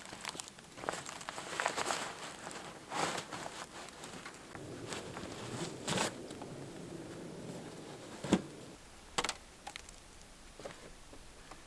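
Intermittent rustling and crinkling with scattered light clicks and knocks, and one sharper knock about two-thirds of the way through, like gear being handled close by.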